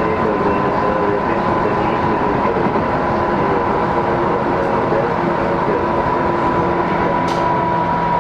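Tobu 10030 series electric train running, heard from inside the passenger car: a steady rumble with a steady high whine.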